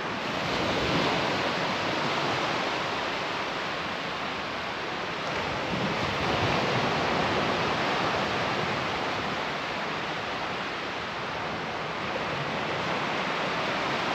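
Surf breaking and washing onto the shore, a steady rush that swells and eases every few seconds.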